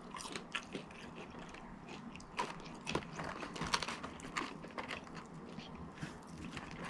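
A person chewing and biting food close to the microphone, with irregular wet mouth clicks and smacks, the sharpest a little past the middle.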